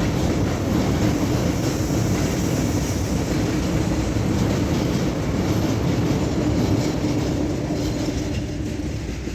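Freight train of tank cars rolling past over a bridge: a steady rumble and clatter of wheels on rail, easing off slightly near the end.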